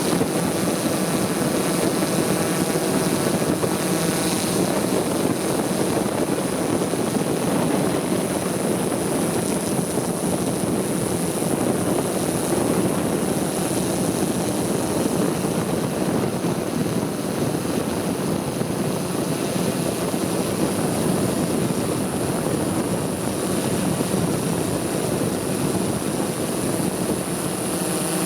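Multicopter drone's propellers buzzing steadily in flight, with a thin high whine above.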